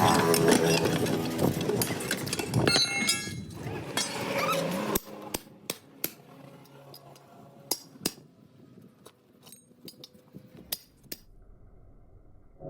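Metal clinks and knocks from tyre repair work. A dense, busy stretch of mechanical noise fills the first five seconds or so, then it drops to scattered sharp clicks and taps.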